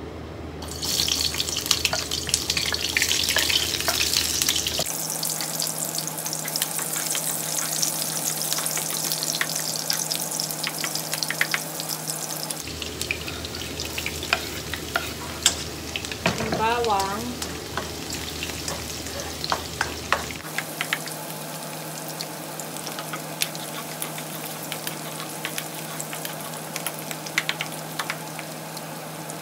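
Chopped onion, then garlic, sizzling in hot oil in a frying pan as it is sautéed, with a spatula clicking and scraping against the pan as it stirs. The sizzle comes in loud about a second in.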